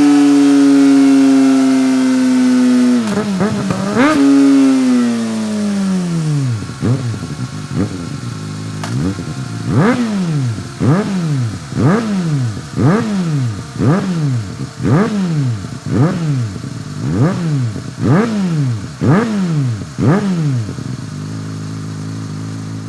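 Kawasaki ZX-4RR's 399 cc inline-four running through a BEAMS R-EVO II titanium full exhaust. It is held at high revs with the pitch slowly sagging, dips and climbs again briefly, then drops to idle. It then gets a string of about fourteen quick throttle blips, roughly one a second, and settles back to idle.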